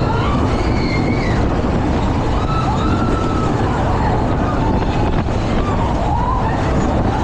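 Fairground ride in motion: a steady loud rumble and rushing noise, with faint high wavering cries or squeals gliding up and down over it.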